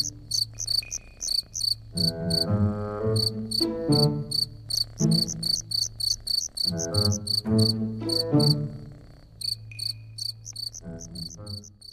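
Crickets chirping in a steady, even rhythm, about three or four high chirps a second, over soft music whose notes start sharply and fade.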